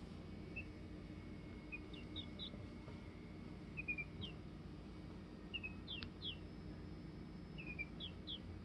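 Bird chirping: short, high notes that sweep downward, coming in scattered pairs and triplets, over a faint steady low hum.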